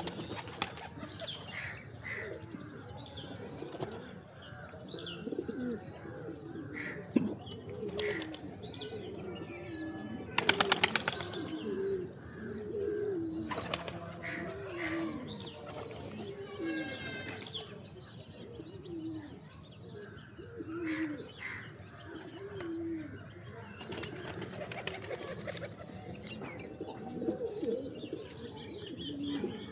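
A flock of pigeons cooing continually, with scattered higher chirps and a loud burst of wing flapping about ten seconds in.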